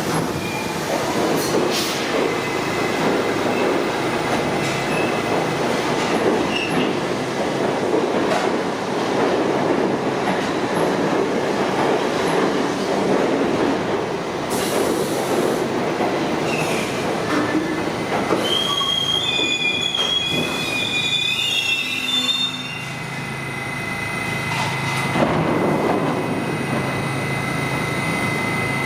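New York City subway train pulling into the terminal platform with rolling wheel and rail noise, its wheels squealing on the track from about 18 to 22 seconds in. It comes to a stop and settles into a steady hum with a thin high tone from its equipment.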